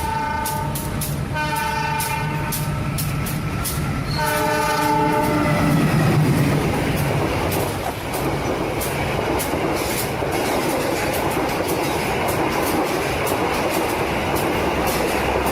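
Train horn blowing in long blasts, three in the first six seconds, over the regular clickety-clack of a train running on rails; after that the train runs on with a steady rumble.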